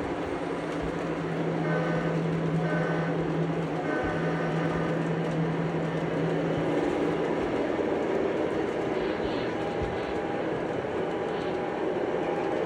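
A train running: a continuous rail rumble, with a steady low hum through the first half that drops out about seven seconds in.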